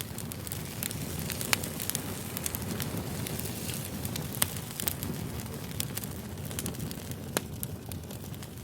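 Campfire burning: a steady low rumble of flame with irregular sharp crackles and pops from the burning wood, a few louder pops standing out.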